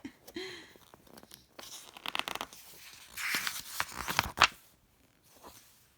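Paper rustling and crinkling in two stretches, a book's page being handled and turned, with a sharp click near the end as the loudest moment.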